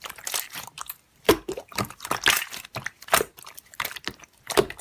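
Slime being squeezed and pressed by hand, giving a run of irregular sticky crackles and pops, several a second.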